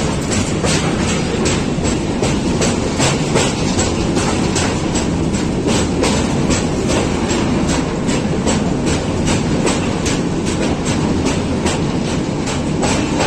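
Moving train's wheels clattering over the rail joints in a quick, even rhythm of about three clicks a second, over a steady running rumble.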